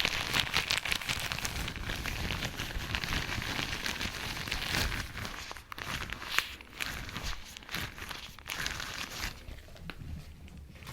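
Latex gloves being rubbed and crinkled: a dense, continuous crackle of many small clicks and squeaks, thinning out about nine seconds in.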